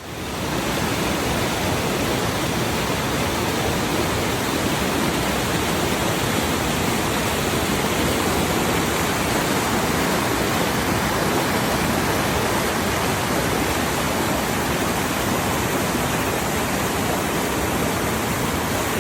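Waterfall with a steady rush of falling water, fading in at the start.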